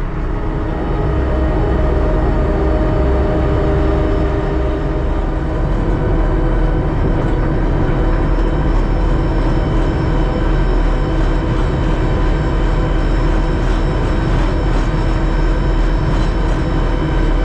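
Terex TLB-815 backhoe loader's diesel engine and drivetrain running steadily while the machine travels on the road. The rebuilt drive axle runs without a hum.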